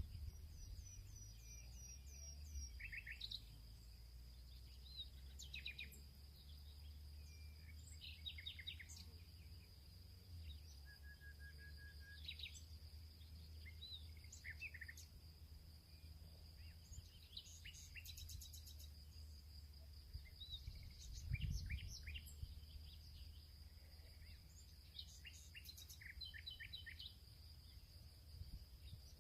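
Faint field ambience of several small birds chirping and trilling in short, scattered phrases over a steady high insect drone and a low rumble, with a brief louder low rumble about two-thirds of the way through.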